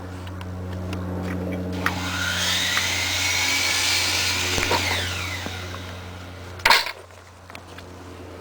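A power tool spins up with a rising whine, runs loudly for a few seconds, then winds down, over a steady low engine hum. A short, loud burst of noise follows near the end.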